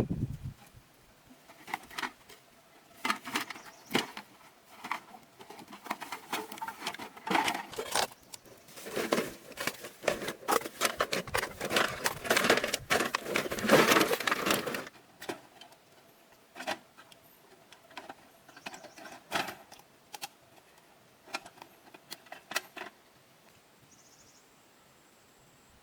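Irregular clicking and clattering of small hard objects being handled, thickest in a busy stretch in the middle and thinning out after.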